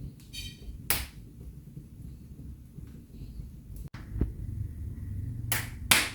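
Wood fire in a fireplace crackling, with a few sharp pops: one about a second in and two in quick succession near the end, over a low steady rumble.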